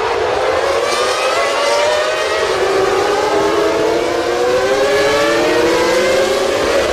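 Several 1997 Formula One car engines running at high revs, their overlapping notes sliding up and down in pitch.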